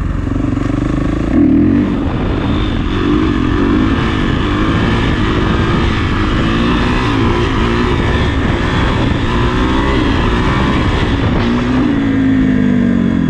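Kawasaki KX450's single-cylinder four-stroke engine running under throttle, its revs rising and falling as the dirt bike is held in a wheelie, with a brief surge about a second and a half in.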